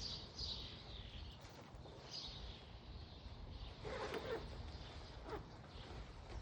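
A bird chirping, with a few short falling notes, over a faint steady low rumble of outdoor background noise.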